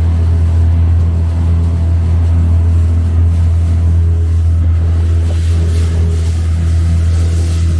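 Small boat's engine running steadily with a deep, even drone.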